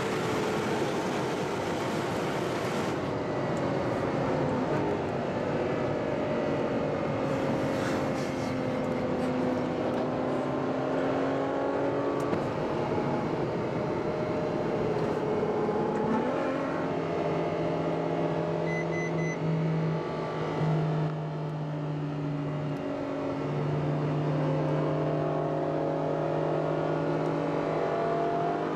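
Ferrari FF's V12 engine heard on board while driving: revs fall and rise in the first half, then settle into a steady cruise.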